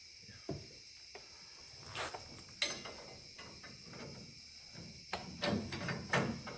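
Scattered metallic clinks and knocks of tools and lug nuts being handled during tire work on a car, with several quick knocks together near the end, over a steady faint high-pitched tone.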